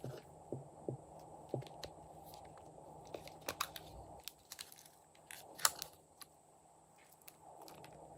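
Glossy slime being squished and stretched by hand, giving irregular sticky clicks and small crackles, with the sharpest pop a little past halfway.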